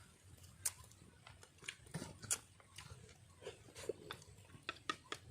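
Faint eating sounds: a dozen or so short, irregular clicks and smacks of chewing.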